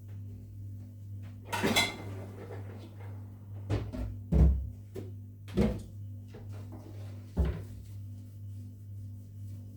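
A handful of knocks and clatters from household things being handled while cleaning, about five over several seconds. The loudest is a deep thump just before the middle, and the first rings briefly. A steady low hum runs underneath.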